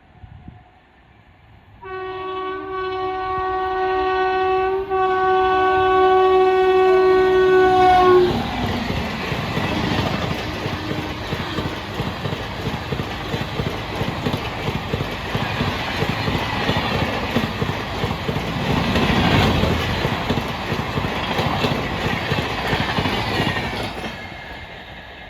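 Express train approaching with one long, steady blast of its locomotive horn lasting about six seconds. The train then rushes past with a steady rattle of wheels over the rail joints, fading away near the end.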